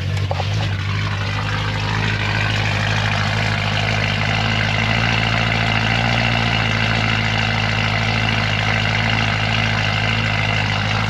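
BMW E90 M3's 4.0-litre V8 idling steadily just after a cold start, heard at the exhaust tips; not that loud.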